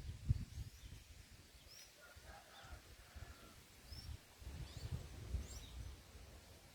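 Small birds giving scattered short, high chirps, with a fainter, lower call about two to three seconds in. A low rumble comes and goes beneath them, near the start and again from about four seconds in.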